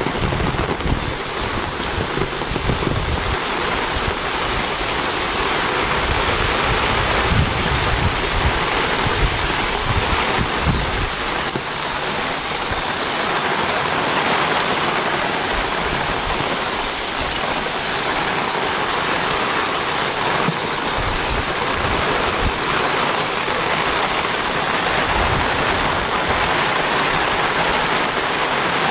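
Heavy rain pouring steadily, a dense even hiss of water. A low rumble runs under it through roughly the first ten seconds, then drops away.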